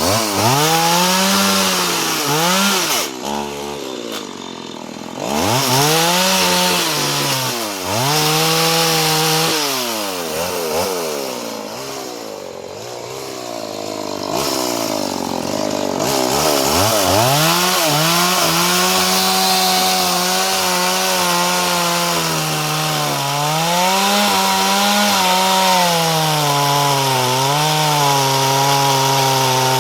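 A two-stroke chainsaw engine on a test run after repair. It is revved up and let fall back several times, then held at high speed for long stretches with a few brief dips in the second half.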